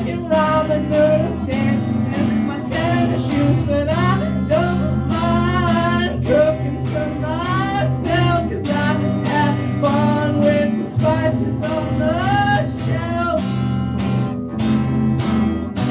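A man singing an original song to his own strummed guitar, performed live; the voice stops about thirteen seconds in and the guitar carries on alone.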